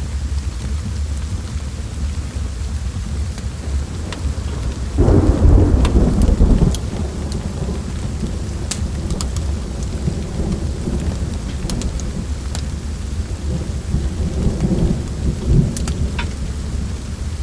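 Steady rain with a low roll of thunder that swells about five seconds in and fades after a couple of seconds, with a smaller rumble later. Scattered sharp crackles of a wood fire come through over the rain.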